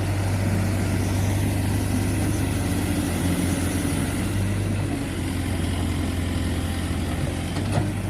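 Heavy vehicle's diesel engine running steadily with a low, even drone, and a single sharp knock near the end.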